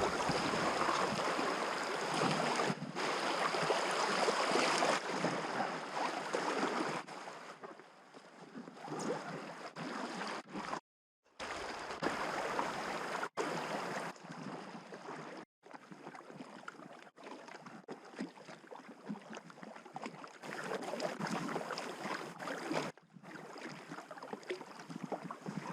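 Water rushing and splashing around a packraft on a fast river, an uneven hiss that swells and fades and breaks off abruptly a few times.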